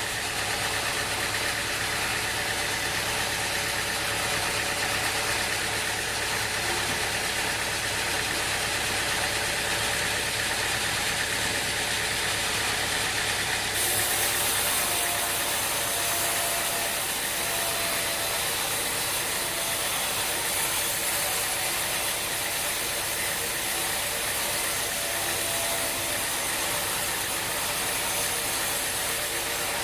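Sawmill machinery running steadily, a continuous engine-like drone; a high hiss joins about fourteen seconds in.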